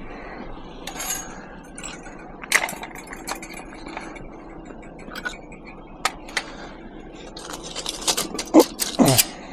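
Pieces of scrap metal clinking and clattering as they are handled and dropped together: a few scattered knocks, then a quick run of louder clanks near the end.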